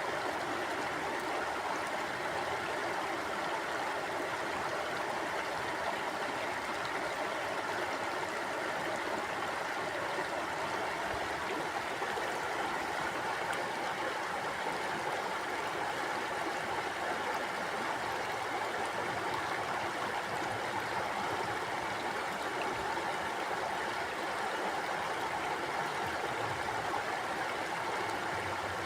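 Mountain stream flowing over rocks: a steady rushing and gurgling of water.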